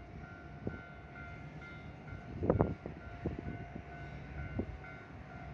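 Trackside sound of a Kintetsu Nagoya Line express train, with a ringing tone that pulses about twice a second over a steady rumble. Sharp knocks break through, the loudest cluster about two and a half seconds in.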